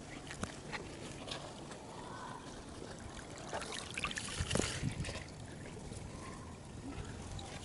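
Water trickling in a small, shallow garden stream, with scattered short clicks and a louder cluster of knocks and rustling about four to five seconds in.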